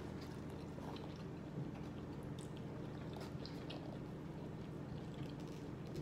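Close-miked chewing of a mouthful of shrimp and rice, with soft wet mouth clicks scattered throughout, over a steady low hum.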